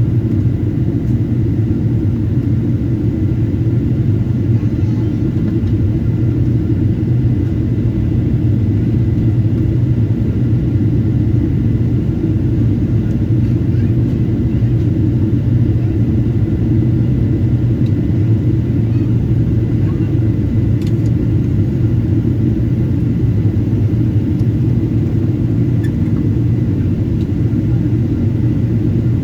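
Steady low rumble of a Boeing 777-200's cabin in flight, engine and airflow noise, with a faint steady high whine above it.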